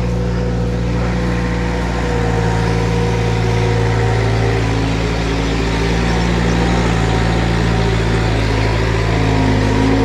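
A motor vehicle engine running steadily at a constant speed, holding one even pitch.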